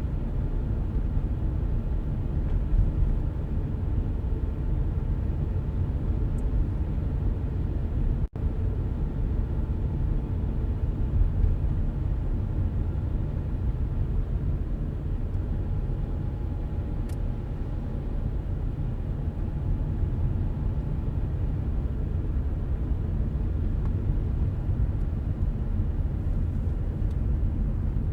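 Car driving steadily along a road: an even, low rumble of tyres and engine. The sound cuts out for an instant about eight seconds in.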